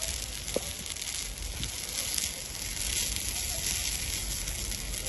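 Forest fire burning: a steady hiss with a few scattered crackles and pops.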